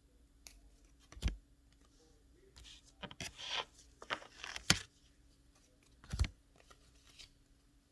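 Paper flash cards being handled: a few separate knocks and taps, two of them heavier, with a burst of rustling and scraping in the middle.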